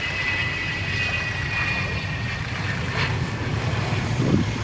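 Twin General Electric J79 turbojets of an F-4E Phantom II in flight: a steady deep rumble with a high whine that falls slowly in pitch.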